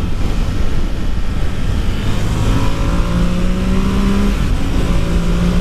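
Ducati Monster 1200R's 1198 cc L-twin engine pulling under load, its note climbing slowly in pitch from about two seconds in, breaking off briefly near the three-quarter mark and returning, over heavy wind rumble on the helmet microphone.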